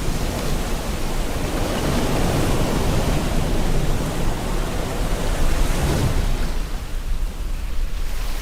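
Steady rain mixed with ocean waves on a shore, an even wash of noise. It swells about six seconds in, then falls away and grows thinner.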